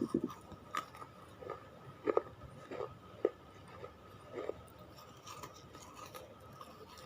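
Close-up chewing of crunchy clay or chalk: scattered separate crunches, one every half second to a second, over a faint steady high hum.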